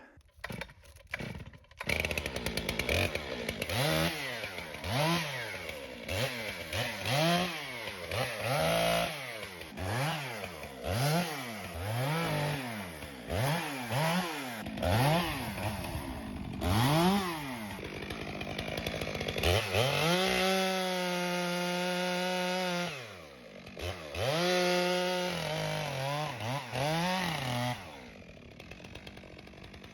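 Stihl MS 462 two-stroke chainsaw revving up and down about once a second, then held at high speed for two steady runs of a few seconds each while cutting a fallen ponderosa pine, before dropping back near the end.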